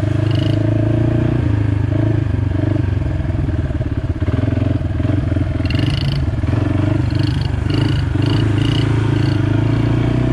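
Yamaha TT-R50E's small 49cc four-stroke single-cylinder engine running steadily at low, gentle throttle with slight rises and dips in pitch. Several short high squeaks come in over the last few seconds.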